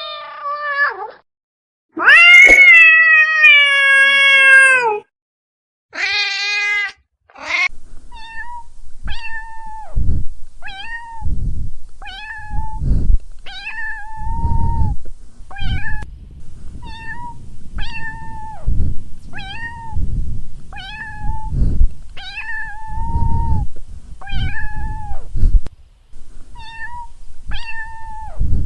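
Domestic cats meowing: one loud, long meow that falls in pitch, then two short high meows, then a cat meowing over and over about once a second with low thumps underneath.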